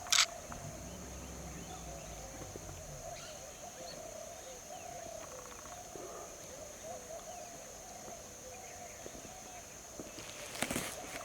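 Outdoor ambience: a steady high-pitched whine over a faint, wavering chorus of small calls. A sharp click comes just after the start, and a few clicks near the end.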